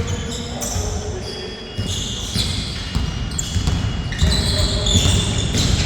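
Basketball game in play: a ball bouncing on the court amid footsteps, with repeated short high squeaks of sneakers on the floor.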